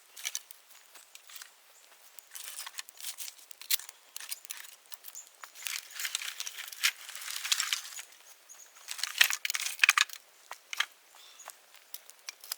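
Bonfire of dry dead bamboo crackling, with irregular sharp snaps and pops and a denser hissing crackle partway through; the loudest snaps come about nine seconds in.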